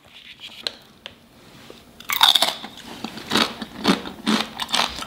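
Salsa-dipped chips being bitten and chewed: a run of loud crunches, about two a second, starting about two seconds in.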